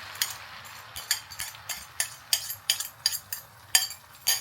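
Metal spatula clinking and scraping against a kadai, about a dozen irregular strikes, while stirring eggs frying in oil with a faint sizzle that fades over the first second.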